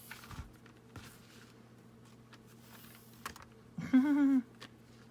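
Faint rustling and light clicks of a tangled rope being worked loose by hand, over a low steady hum. About four seconds in comes a short, loud, wordless vocal sound lasting about half a second.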